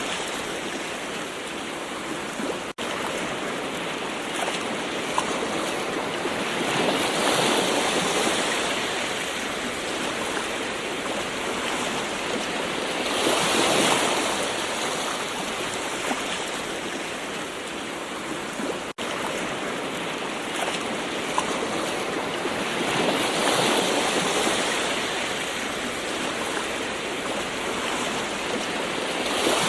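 Gentle ocean waves washing in: a steady hiss of surf that swells into louder breaks every several seconds and falls back between them, with two momentary dropouts in the sound.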